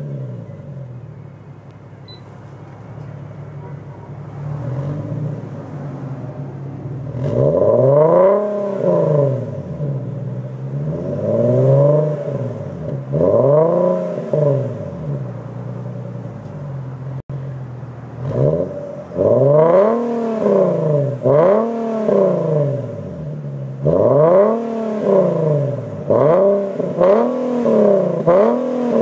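Infiniti G37's 3.7-litre V6 through a Greddy Ti-C titanium exhaust, idling steadily for about seven seconds after start-up. Then it is revved in a series of quick throttle blips, each rising and falling in pitch, in two bursts with idle in between.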